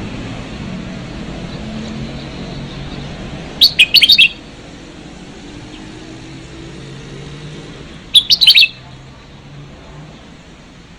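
Red-whiskered bulbul singing: two short bursts of quick, loud notes about four seconds apart, over a faint low rumble.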